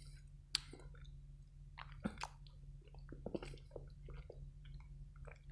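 Faint close-miked chewing of a cherry tomato: soft wet squishes and small mouth clicks, scattered irregularly.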